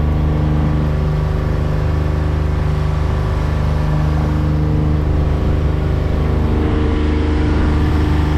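Tour boat's engine running steadily at constant speed while the boat is underway, a low, even drone.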